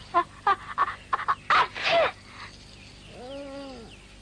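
A talking bird squawking: a quick run of short, sharp, loud calls, then one longer call that rises and falls in pitch.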